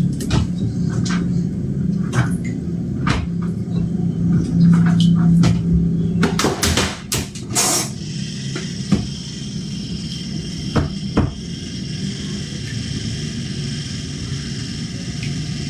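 Washing machine running with a steady low motor hum and irregular knocks and bangs, densest in the first half, as the machine shakes hard enough to walk across the floor.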